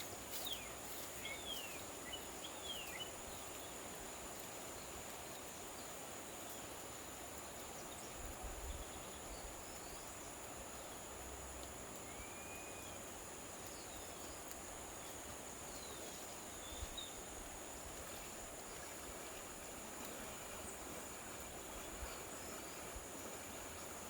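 Steady high droning of insects such as crickets, with a few short bird chirps, over an even rushing hiss from the flooded river. A couple of soft low thumps come about a third and halfway through.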